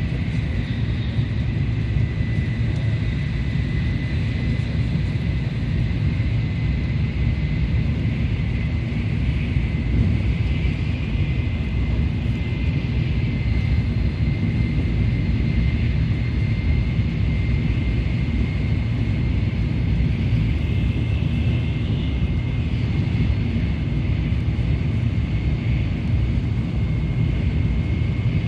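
Tokaido Shinkansen train running at speed: a steady low rumble with a thin, steady high tone over it.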